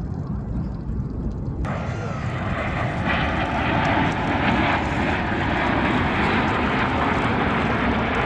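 Jet aircraft of the Snowbirds aerobatic team, Canadair CT-114 Tutor jets, flying overhead with a steady rushing engine noise. The noise suddenly gets brighter and fuller about two seconds in and grows slightly louder after that.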